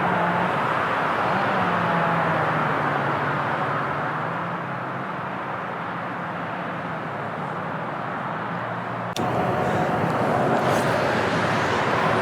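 Steady outdoor hum of motor traffic, with a low engine drone slowly sinking in pitch. The sound changes abruptly about nine seconds in.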